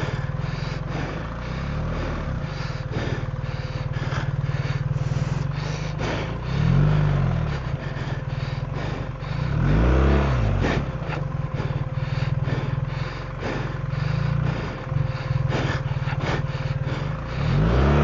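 BMW R 1300 GS Adventure's boxer-twin engine running at low revs on a rough downhill trail. The revs rise and fall about three times, with frequent short knocks and rattles throughout.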